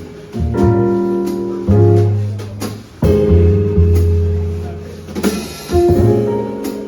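Live jazz played on piano, bass and drums: piano chords over deep bass notes, re-struck about every second or so, with light cymbal hits.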